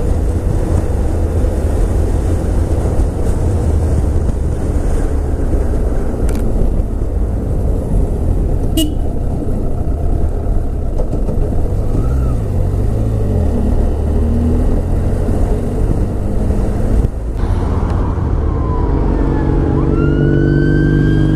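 Wind rush and engine noise of a moving motorcycle, heard from a camera on the rider's helmet. Near the end an emergency vehicle's siren starts, its pitch sweeping up and down.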